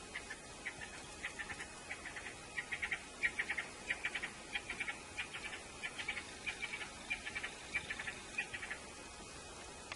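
Faint birds chattering: clusters of short, rapid chirps repeated over and over, stopping about a second before the end.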